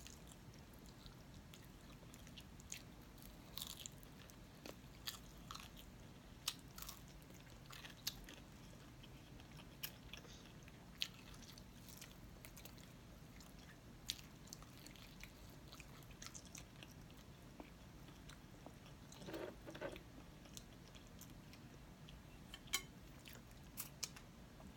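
Faint eating sounds of someone biting and chewing fried chicken wings: scattered short clicks over quiet room tone, with a sharper click near the end.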